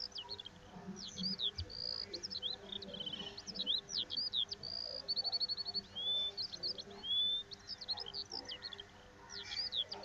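Small birds chirping and twittering in quick, varied high calls, with a couple of short rapid trills, faint and continuous.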